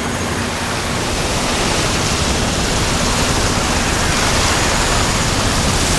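Loud, steady rushing of a helicopter's rotor downwash whipping up sea spray, growing a little louder, with a faint low hum underneath.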